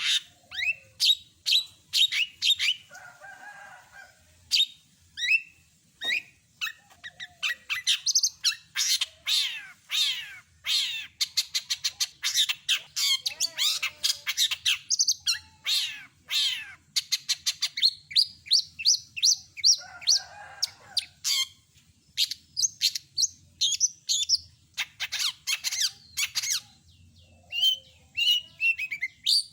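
Long-tailed shrike singing a fast, varied song of sharp chirps and quick trills, broken twice by a harsh, raspy call.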